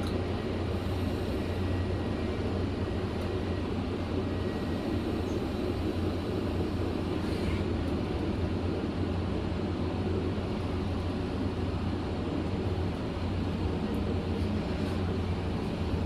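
Steady low rumble and hum inside a Metra commuter rail car running along the track as the train approaches a station.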